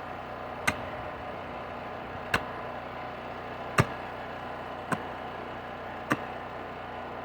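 Vevor electric demolition hammer running steadily as it chisels into rocky soil, with a sharp knock about every second or so.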